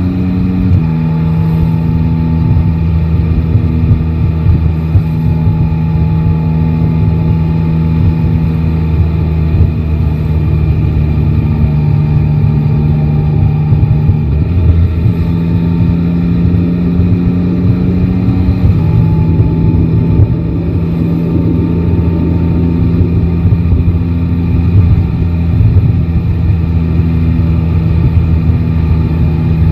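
Yamaha Tracer 9 GT's three-cylinder engine running steadily under way. Its engine note drops about a second in, rises around halfway, and drops again about two-thirds of the way through as engine speed changes.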